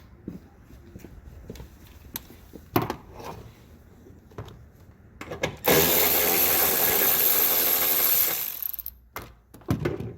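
A handheld power tool runs steadily for about three seconds, a little past halfway through, between scattered knocks and clicks of tools and parts being handled.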